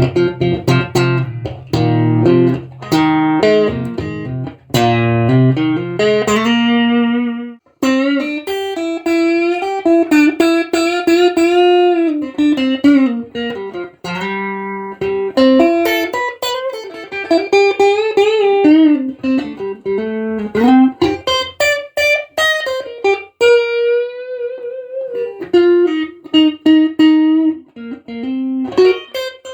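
Strat-style electric guitar played: chords with low notes for about the first seven seconds, then single-note lead lines with string bends and vibrato.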